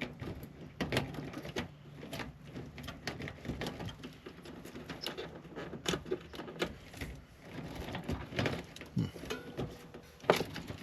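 Irregular clicks, taps and knocks of computer parts and case panels being handled during disassembly, with one sharper knock near the end.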